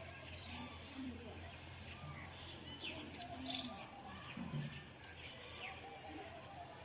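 Several birds chirping and calling at once: quick high chirps mixed with lower cooing notes, over a steady low hum.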